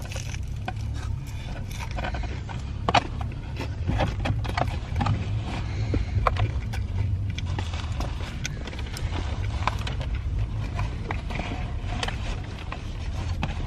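Eating fried chicken: scattered crunching bites and rustling of food wrappers, with small clicks and taps, over a steady low rumble.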